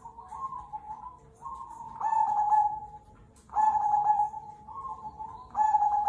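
Cemani kolbuntet zebra dove (perkutut) cooing, a repeated phrase of low, steady-pitched notes. Loud phrases begin about two seconds in, again about a second and a half later, and again near the end.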